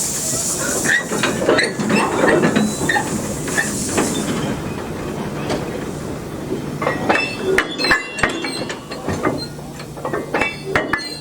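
A steam train on the move: steam hissing for the first few seconds, then clanking and knocking of the couplings and wheels with short high metallic squeals from about seven seconds in.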